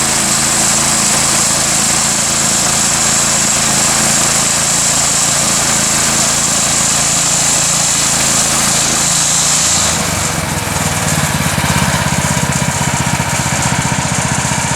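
Gas engine of a Woodland Mills 126 bandsaw sawmill running steadily under load, with a high hiss from the band blade cutting through the log. About ten seconds in the hiss fades and the engine settles to a lower, rougher idle as the cut ends.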